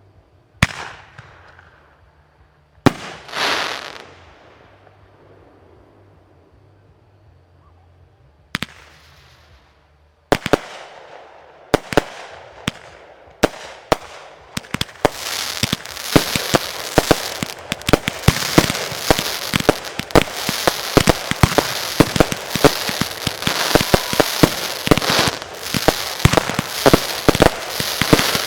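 Fireworks going off: several separate bangs, one followed by a short crackling hiss. About halfway through they build into a dense, continuous barrage of bangs and crackling.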